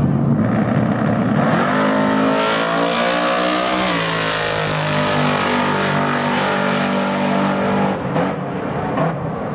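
Drag car's engine launching and running at full throttle down an eighth-mile strip. The note climbs, drops once about four seconds in, climbs again, then fades as the car pulls away.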